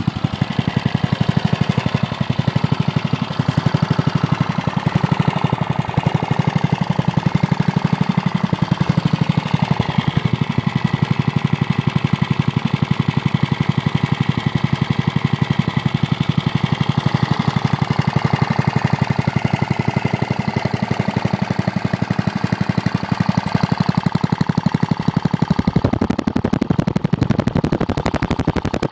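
1960s Briggs & Stratton single-cylinder flathead (L-head) engine running steadily at low throttle, near idle, with a fast, even firing beat. It has just been revived after sitting for years with only a new fuel line and fresh gas.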